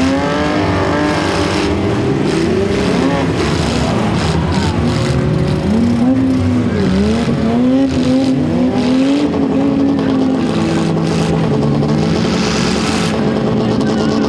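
Several demolition derby cars' engines revving at once, their pitches rising and falling over one another, with a few sharp knocks in the middle.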